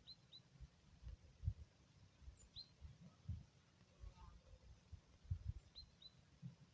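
Faint, sparse bird chirps: a few short high calls, twice coming as a quick pair, over irregular low thumps and rumble.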